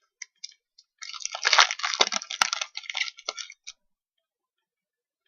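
Foil wrapper of a basketball card pack crinkling as it is torn open and handled: a dense crackling rustle lasting about two and a half seconds, with a few light clicks before it and a sharp snap in the middle.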